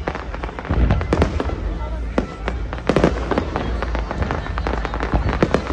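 Aerial fireworks shells bursting in quick, irregular succession: a run of sharp bangs and crackles over a steady low rumble, the loudest reports about one and three seconds in.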